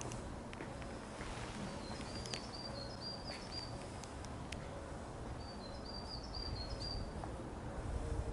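A small bird chirping in two quick runs of high notes, the first about two seconds in and the second about six seconds in, over a steady outdoor hiss with a few faint ticks.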